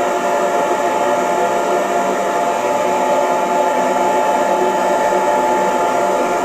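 Electric hair dryer running steadily: an even blowing rush of air with a steady motor whine.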